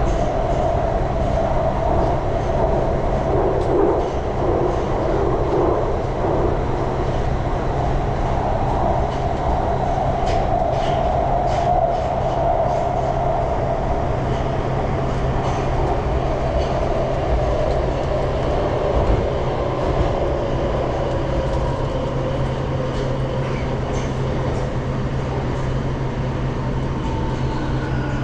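Budapest M2 metro train running through the tunnel, heard from inside the carriage: a steady rumble and hum of wheels on rail. Near the end a falling whine sets in as the train slows for the station.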